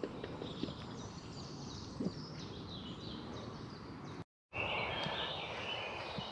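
Woodland ambience: birds singing and chirping over a steady background hiss, broken by a short silent gap about four seconds in.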